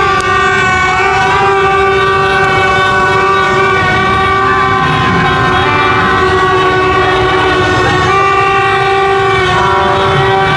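A dense, continuous blare of many horns sounding together, several steady pitches held at once for seconds, over a din of street noise.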